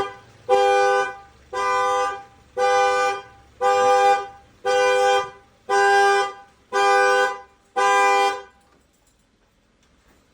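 Car horn blaring in eight even, two-tone honks about once a second, then stopping, in the steady repeating pattern of a car alarm or panic alert. A sharp click comes just before the first honk.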